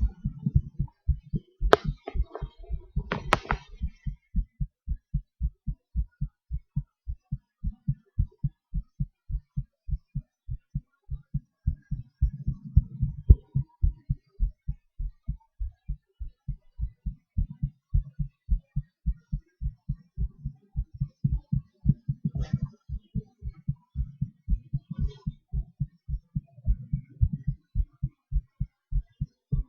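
Human heartbeat heard close up: a steady, fast train of low thuds. Brief sharp crackles sound over it in the first few seconds and again twice about three-quarters of the way through.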